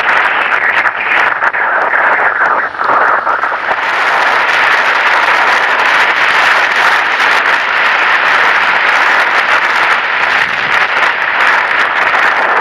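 Steady rushing noise of rain and wet road, spreading higher and growing more even from about four seconds in.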